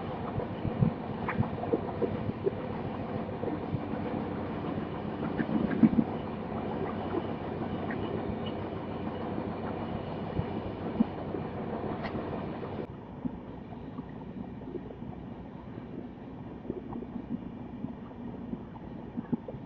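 Express passenger train running along the track, heard from on board: a steady rumble with scattered knocks from the wheels over the rails. About thirteen seconds in the sound drops quieter and duller.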